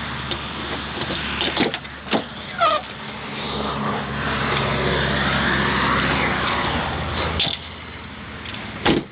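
Chrysler LeBaron's V6 engine running steadily, with a few sharp clicks and knocks from the car's door and lock being worked. A louder, noisier swell lasts several seconds in the middle and drops off suddenly.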